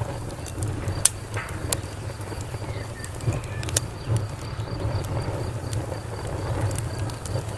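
Wood fire crackling: a low steady rumble of the flames with sharp pops and snaps, the loudest about a second in.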